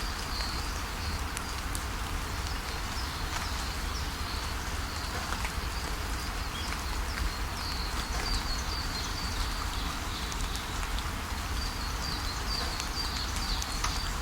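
Steady rainfall with scattered drop taps, and a bird singing through it in runs of short, high repeated chirps that grow busier in the second half.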